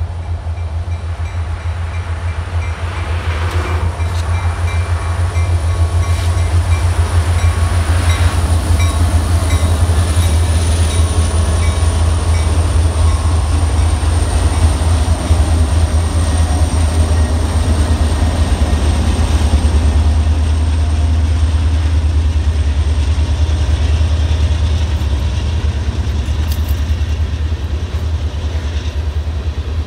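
A freight train passing close by. A lead CSX SD70MAC and other diesel locomotives rumble past, growing louder over the first several seconds. A line of tank cars follows, rolling by with a steady low rumble and clattering wheels.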